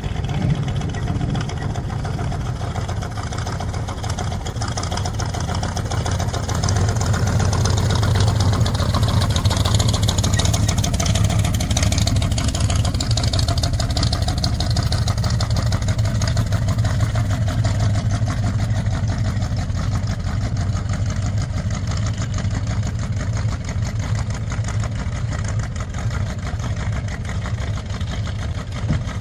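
Rat rod's exposed engine idling with a steady low rumble as the car rolls slowly past, louder as it comes closest midway.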